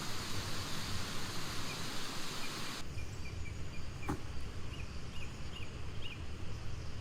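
Forest ambience: a steady hiss that cuts off abruptly about three seconds in, leaving low background rumble with a few short high chirps and a single sharp click.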